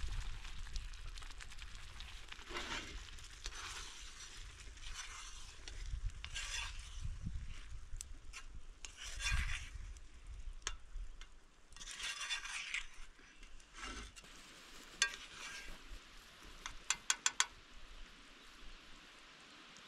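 Food sizzling in a pan over a campfire while a utensil stirs and scrapes it in repeated strokes, with a quick run of light clinks near the end.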